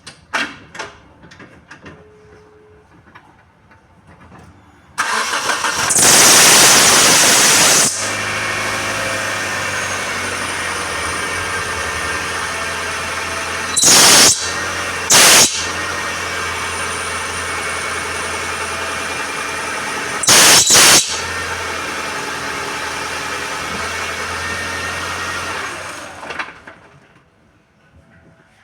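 Hyundai Tucson engine started, with a loud squeal for about three seconds as it catches, then idling steadily, broken by two pairs of brief loud squeals, before being switched off near the end. The squeals come from the power steering pump belt.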